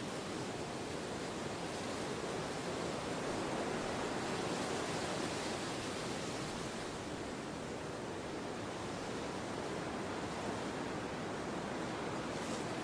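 Wind blowing, a steady rushing that swells a little a few seconds in and eases again.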